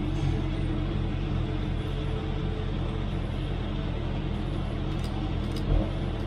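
Race car engine idling steadily, with one low thump near the end.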